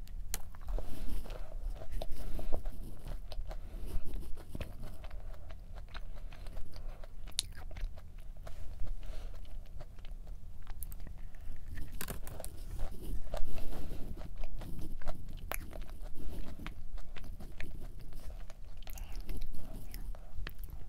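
Biting and chewing of a thick double chocolate almond cookie, with crunching and crackling throughout; the sharpest crunches come about twelve and thirteen seconds in.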